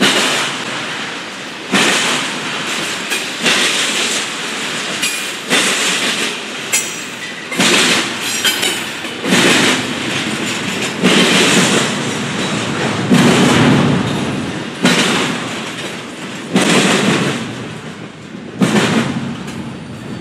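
Double-stack intermodal freight train rolling past, its well-car wheels clacking over the track in a repeating rhythm of loud knocks every second or two over a steady rumble, with a brief faint high wheel squeal about seven seconds in.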